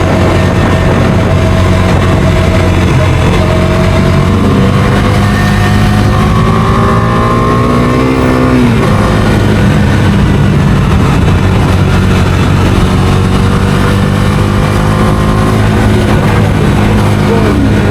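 Bajaj Dominar 250 motorcycle engine running steadily at cruising speed, under a dense rushing noise. About four seconds in, another engine's tone rises in pitch, then drops away sharply just after eight seconds.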